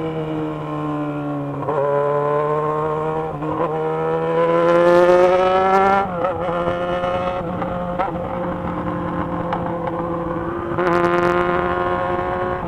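Yamaha XJ6's inline-four engine under way. The revs fall at first, then climb through the gears with shifts about two and three and a half seconds in, peaking near six seconds. It then holds steady cruising revs, with a short surge near the end.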